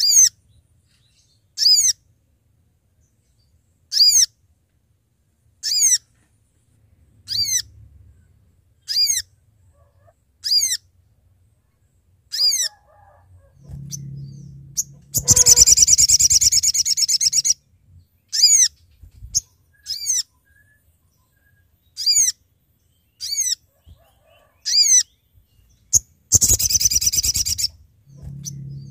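Spiderhunter (sogok ontong) calling: a sharp, high, falling call note repeated about every second and a half. Twice, once around the middle and again near the end, it breaks into a loud, fast trill lasting about two seconds.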